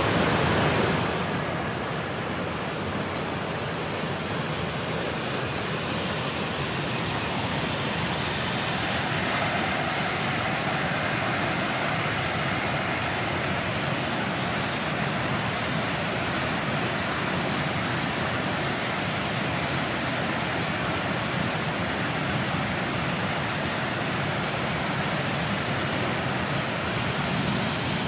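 Waterfall: river water pouring over the falls in a steady, unbroken rush.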